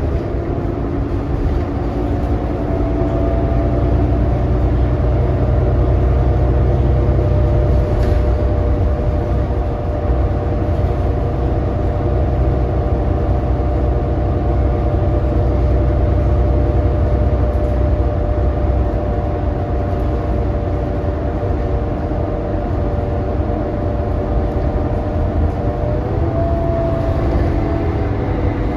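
New Flyer XD40 diesel city bus running under way, heard from on board: a steady low rumble with several whining tones from the drivetrain that drift slightly in pitch. The whine is the odd, messed-up sound this particular coach is known for.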